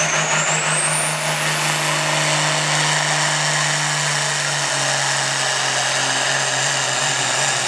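Turbocharged diesel farm tractor engine running hard at high rpm in a pull, its turbo whistle rising in pitch over the first second or so and then holding high over a steady engine note.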